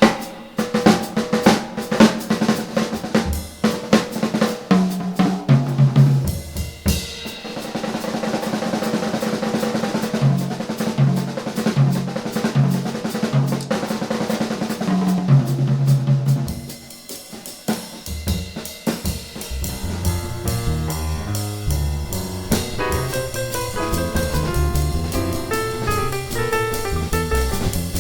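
Jazz drum kit solo: snare rolls and rimshots, tom and bass drum hits, and a sustained cymbal wash. About 17 seconds in the drums drop back and piano and double bass come in with the rest of the trio.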